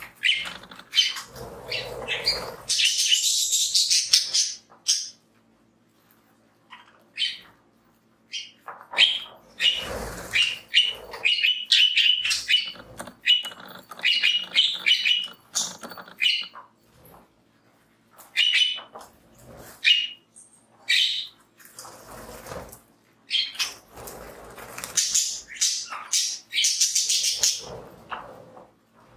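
Several budgies chirping and chattering in short bursts, with rustling and scratching as they play in the millet grass.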